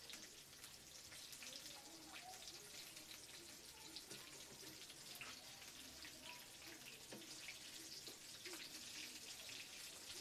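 Samosas frying in oil in a pan: a faint, steady sizzle with small scattered crackles.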